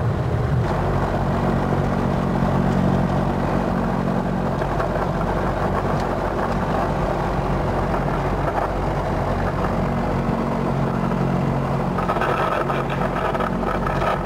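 Light aircraft's piston engine droning steadily inside the cabin: low, even engine tones over a constant rush of noise.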